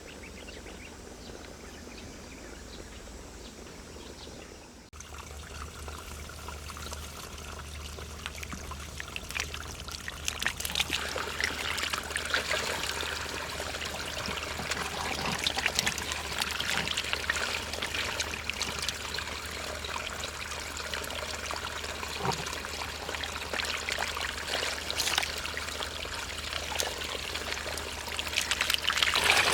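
Shallow water trickling and splashing, dense with small drips and splashes. It grows louder after a sudden change about five seconds in.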